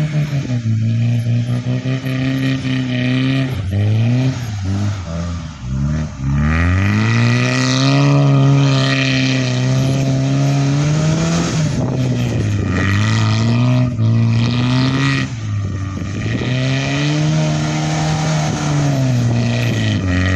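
Tofaş Doğan SLX car engine revving hard while the car is stuck in snow. The pitch rises and falls several times, with a long climb to high revs a few seconds in.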